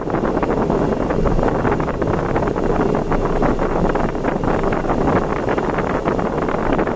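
Steady road and wind noise of a car driving at expressway speed.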